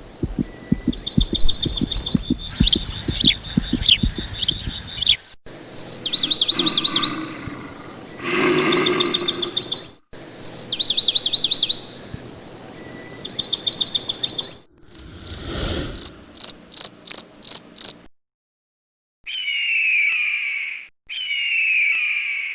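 Birds singing: short, fast trills of repeated high notes, broken by several abrupt cuts, then a run of falling calls near the end.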